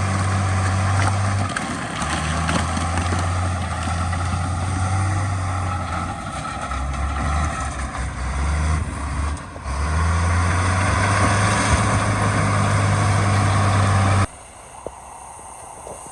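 Heavy diesel engine of earthmoving equipment running loud, its low hum shifting in pitch several times as the engine speed changes. About fourteen seconds in it drops off abruptly to a much quieter engine sound.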